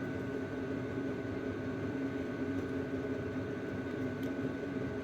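Steady background machine hum with a constant tone, and a few faint clicks from an oil seal puller as its handle is cranked against the seal.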